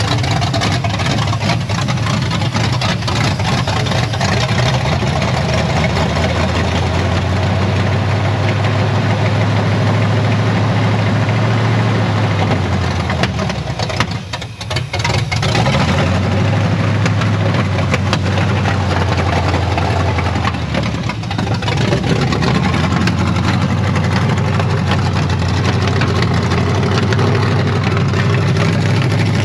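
Chevy C10 pickup engine running at idle after eight years of sitting, its sound dipping briefly about halfway through and again about two-thirds of the way through.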